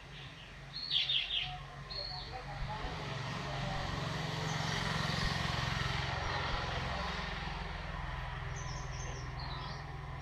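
Birds chirping in short high calls, a cluster about a second in and more near the end, over a steady low hum and a broad rushing noise that swells and fades through the middle.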